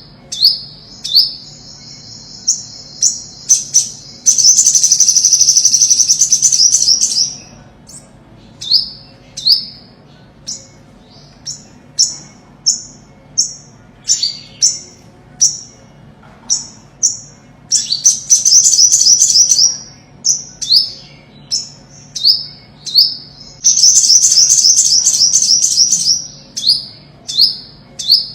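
Olive-backed sunbird singing: a string of short, high, falling chip notes, broken three times by fast trills lasting two to three seconds.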